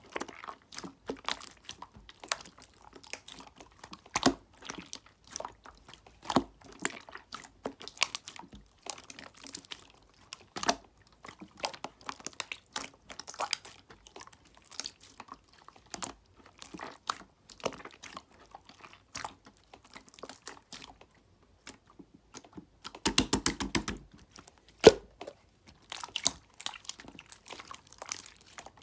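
Clear slime being squished and pressed by hand, making a steady stream of small sticky clicks and pops. After a short pause about three quarters of the way through, there is a fast rattling run of clicks.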